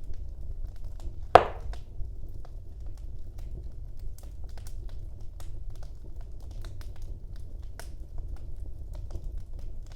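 Wood fire burning in a fireplace: a steady low rumble from the flames, with scattered small crackles and one loud pop about a second and a half in.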